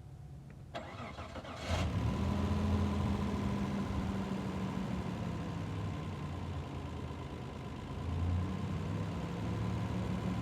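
Mitsubishi 3000 V6 engine cranked by the starter for about a second, then catching and running steadily, with a brief swell in engine speed about eight seconds in.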